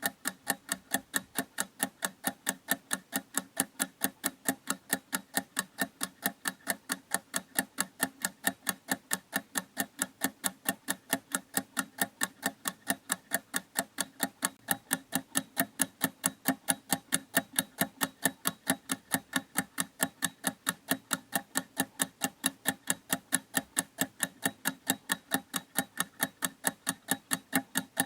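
Clock ticking: rapid, perfectly even ticks, several a second, steady throughout.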